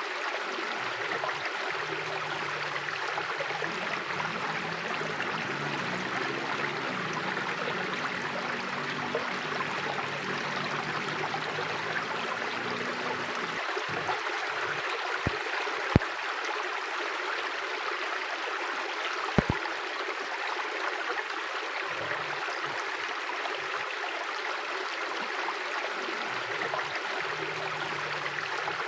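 Mountain river flowing steadily, a constant rushing of water over stones. Three brief sharp clicks come in the middle, two close together and one a few seconds later.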